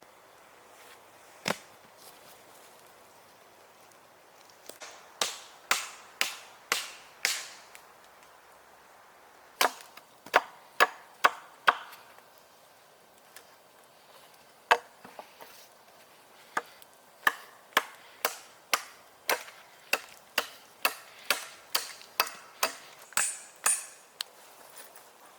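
Sharp blows of a hand tool striking wood. They come in runs of several strikes at about two a second, with pauses between, and a single blow about a second and a half in.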